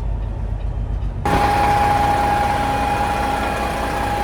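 Detroit diesel engine of a Peterbilt 389 glider truck running: a muffled low rumble, then, after a sudden change about a second in, idling with a steady high whine over it. The engine is running with low oil pressure.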